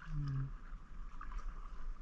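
Water splashing and dripping around a kayak being paddled, over a steady low rumble on the microphone, with a short hummed voice sound right at the start.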